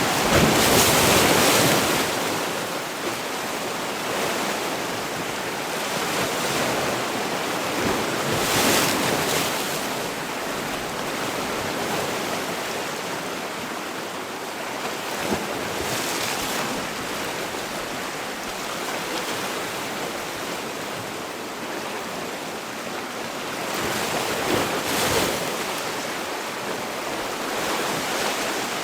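Sea waves breaking and washing on the shore, with louder surges at irregular intervals of several seconds over a continuous surf hiss.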